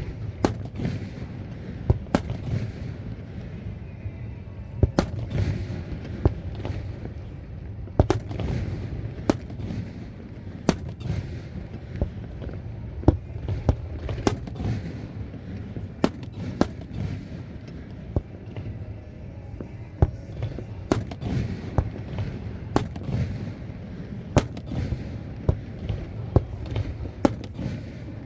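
Aerial fireworks exploding: sharp bangs going off one or two a second in an uneven run, over a continuous low rumble.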